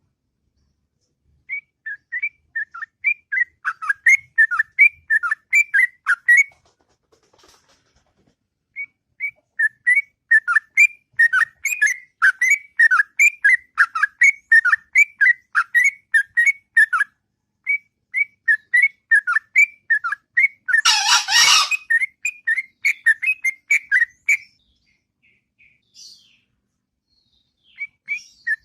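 Yellow-vented bulbul (trucuk) singing long, continuous runs of rapid, bubbling whistled notes, in three phrases with short pauses between them. About three-quarters of the way through, a brief loud rustling burst cuts across the song.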